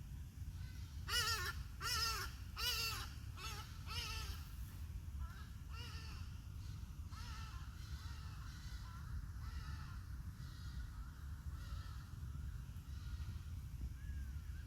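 A bird giving a series of short, harsh calls: five loud ones about one every 0.7 s in the first four seconds, then fainter, more distant calls. A steady low rumble lies underneath.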